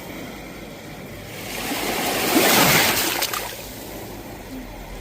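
Sea waves breaking and washing on the shore, one wave swelling to its loudest about two and a half seconds in and then easing back.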